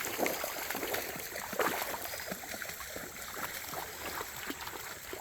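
Shallow creek water trickling and running over rocks, with scattered small irregular ticks and splashes.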